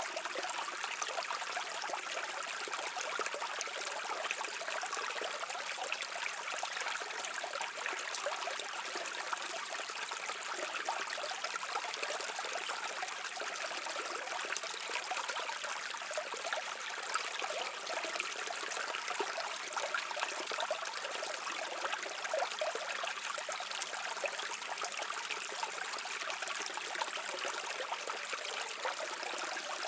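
Small stream flowing and trickling over rocks: a steady, even babble of water with a bright splashing texture.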